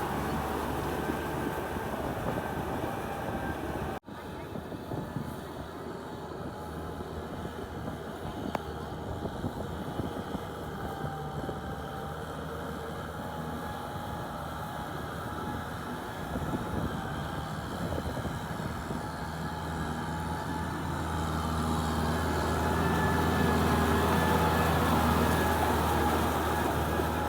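Kubota tractor's diesel engine running steadily while plowing a muddy field. The sound cuts out for an instant about four seconds in, then grows louder near the end.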